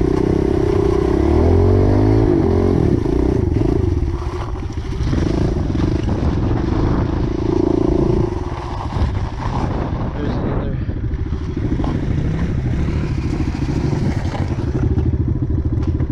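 Pit bike's small single-cylinder engine running under a rider on a trail, the revs rising and falling in the first few seconds, then running more steadily.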